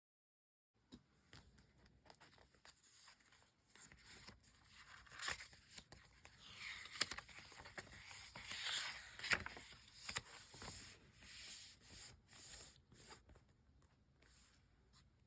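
Close-up paper and sticker handling on a diary page: rustling, peeling and tearing sounds with scattered light taps and clicks. It starts after about a second of silence, is busiest in the middle and thins out near the end.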